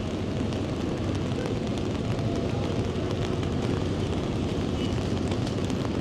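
Steady low rumble of city street noise outdoors, with faint scattered ticks above it.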